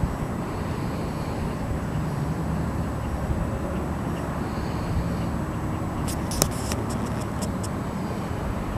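Steady low background rumble, with a few faint clicks about six to seven seconds in.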